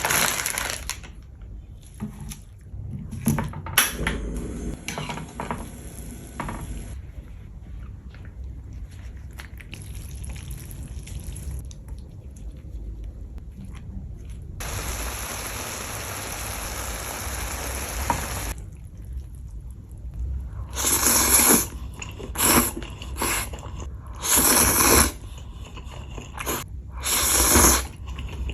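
Food being handled and eaten: scattered clicks and rustles, a steady pour or run of liquid lasting a few seconds about halfway through, then a series of loud, short bites or crunches toward the end.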